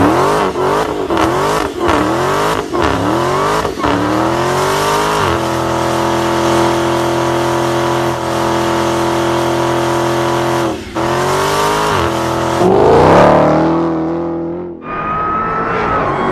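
Jeep Grand Cherokee Trackhawk's supercharged V8 driven hard: the engine note swings up and down several times in quick succession, then holds a steady high pitch for several seconds, dips, and climbs and falls again near the end.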